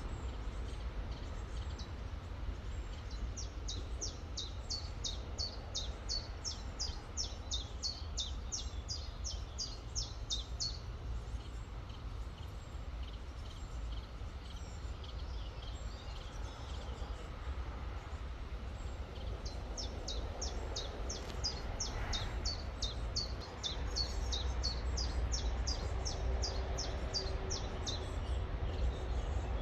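A songbird singing two long runs of quick, evenly repeated high notes, about three a second, the second run starting about twenty seconds in, over a steady low rumble.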